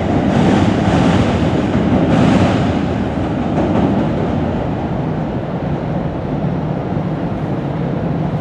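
NJ Transit commuter train passing at speed: a steady rumble, with a run of rhythmic clacking in the first two seconds or so.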